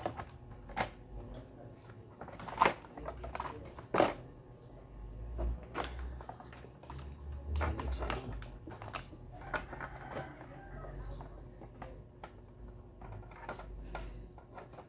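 Scattered clicks and knocks of small parts being handled and fitted as an Osterizer blender's motor is reassembled after its carbon brush is put back, with a few sharper knocks in the first four seconds.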